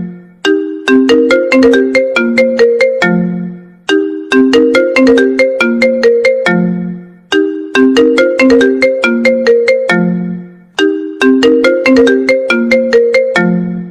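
iPhone ringtone playing on a loop: a quick run of short, bright notes that ends on a low held note, repeating about every three and a half seconds.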